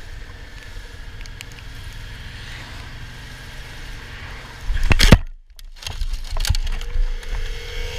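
Motorcycle riding heard on an onboard camera: a steady low engine and wind rumble with light ticks. About five seconds in there is a very loud burst of noise that cuts out briefly, followed by a few loud knocks and then a steady hum near the end.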